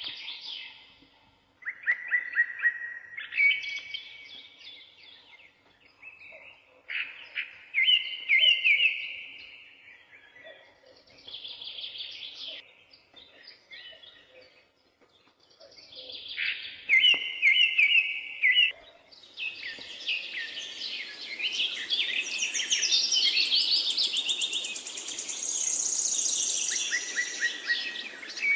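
Birds singing: separate phrases of quick repeated chirps and slurred notes with short pauses between them. About two-thirds of the way in they thicken into a dense chorus of several birds singing over each other.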